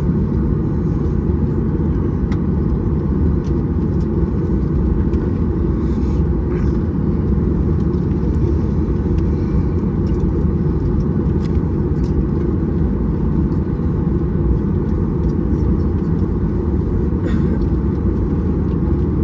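Steady, loud cabin rumble of a Boeing 737-800 with CFM56-7B engines, engine and airflow noise heard from a passenger seat, with a low hum and an occasional faint click.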